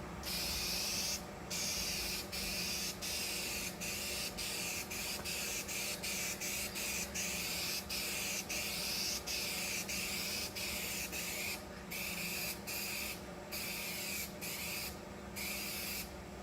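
Aerosol spray-paint can spraying a light coat in a long run of short passes, the hiss stopping for a moment between strokes. This is the third coat over a primed fiberglass repair.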